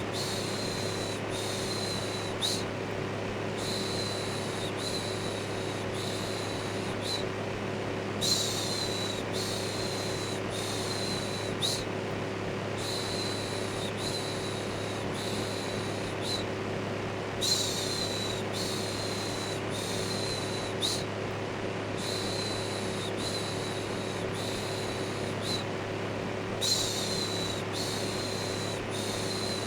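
Electric fan running steadily with a low motor hum under its whooshing noise, overlaid with rhythmic soothing "shhh" shushing. The shushes come about a second each in runs of around five, with a new run starting roughly every nine seconds, and the first shush of each run is the loudest.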